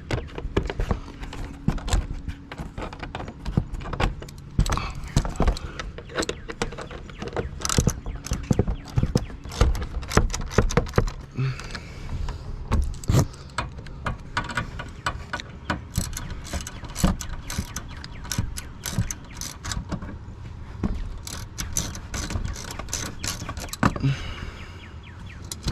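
Ratchet wrench clicking in repeated runs as the splash-shield bolts under the engine are tightened down, with small metallic knocks and rattles between runs.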